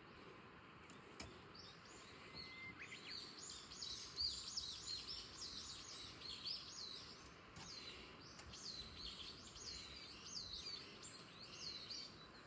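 Songbirds chirping in a rapid, continuous run of short high notes, starting about two seconds in, over a faint steady outdoor hiss.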